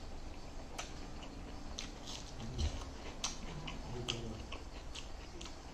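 Close-up eating sounds: irregular mouth clicks and smacks of someone chewing food.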